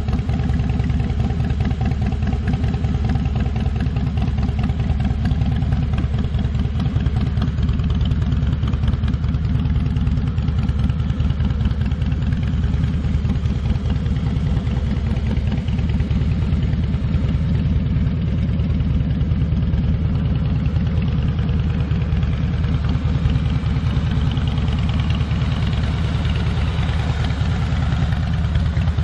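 Harley-Davidson Twin Cam V-twin of a 2005 Heritage Softail Classic idling steadily through an aftermarket Screamin' Eagle exhaust.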